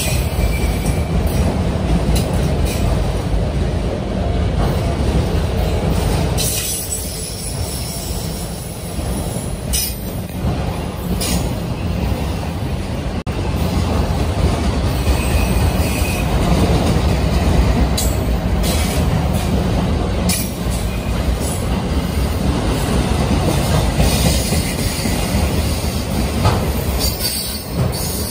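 Autorack freight cars rolling past: a steady rumble of steel wheels on rail, with sharp clanks every few seconds and brief faint wheel squeals.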